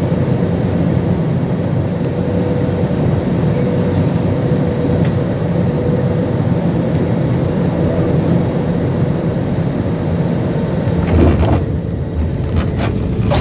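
Airliner cabin noise during landing: a loud, steady rush of engine and airflow noise with a constant hum. About eleven seconds in a brief loud knock cuts through, and after it the noise turns lower and rumblier, with a few short knocks.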